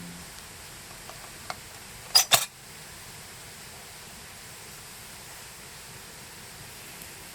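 Two quick, sharp clinks of metal cooking utensils or cookware knocking together about two seconds in, over a steady faint hiss with a few small ticks before them.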